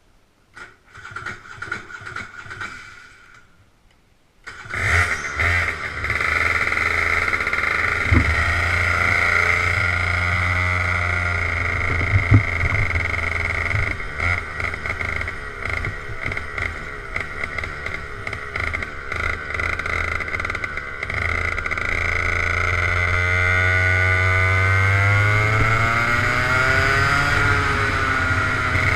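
Go-kart engine starting about four and a half seconds in after a short uneven burst of sound, then running steadily; in the last few seconds its pitch rises and falls as it is revved.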